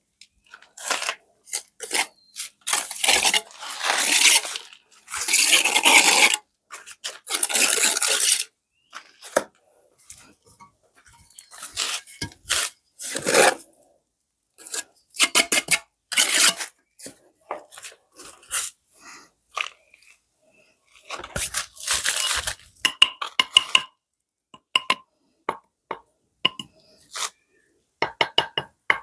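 Rough scraping strokes, then runs of quick, ringing metallic clinks from hand tools at work.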